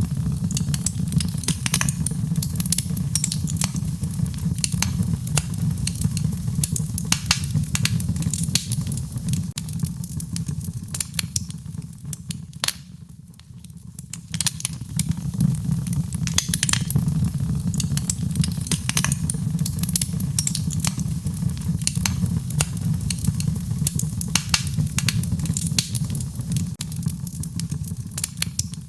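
Wood fire in a fireplace crackling, with frequent sharp pops over a steady low rumble of the flames. It goes briefly quieter about halfway through.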